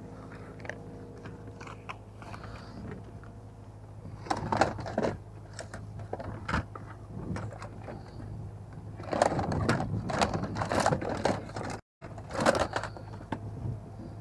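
Rustling and scraping handling noise from items being picked up and moved about, in bursts about four seconds in and again from about nine to eleven seconds, over a steady low hum.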